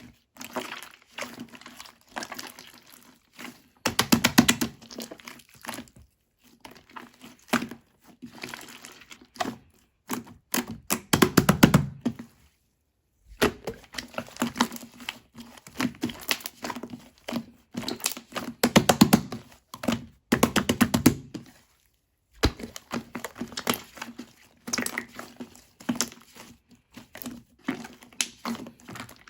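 Hands squeezing and poking a large slime, making irregular clicking and popping sounds in spells of a second or two with short pauses between.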